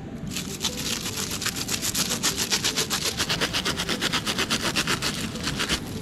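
Rapid rhythmic scraping or rasping, about eight strokes a second. It starts just after the beginning and stops shortly before the end.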